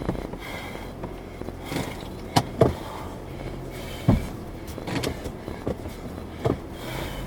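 Car on the move, with steady engine and road rumble and about half a dozen sharp knocks and rattles scattered through it.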